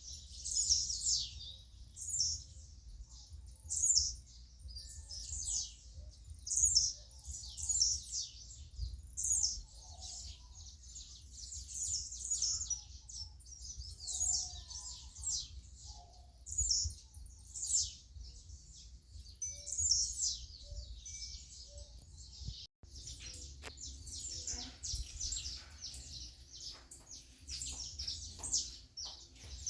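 Wild birds chirping: a chorus of short, high calls repeating about once a second, with a brief break about three-quarters of the way through.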